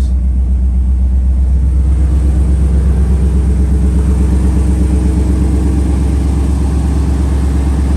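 2000 Ford F-150 Lightning's supercharged 5.4-litre V8 idling steadily with an even, low pulse.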